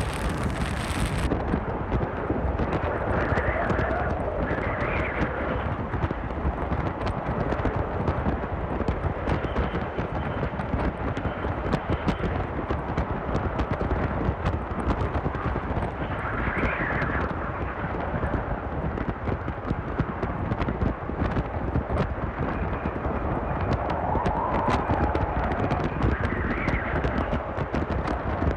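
Strong wind buffeting a Hilleberg Soulo tent, the fabric flapping and rattling in quick irregular clatters, with gusts swelling up several times.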